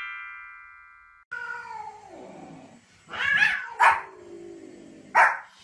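A transition sound effect of descending tones rings out and fades over the first second. Then a cat meows in long downward-sliding calls while a small dog gives three sharp barks, at about three, four and five seconds in.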